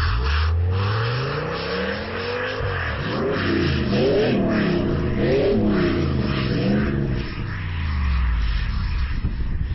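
A vehicle engine revving: it rises in pitch, swings up and down several times, then drops back, over a steady rushing noise.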